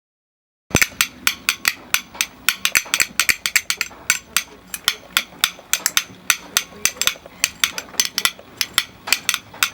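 Rapid, irregular sharp clicks or taps, several a second, starting suddenly just under a second in.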